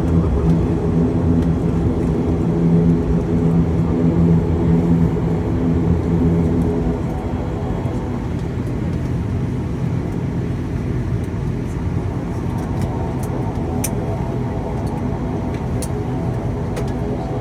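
Twin-turboprop ATR 72 heard from inside the cabin: a steady propeller and engine drone with a clear hum. The hum drops away about seven seconds in, leaving a quieter, rougher rumble.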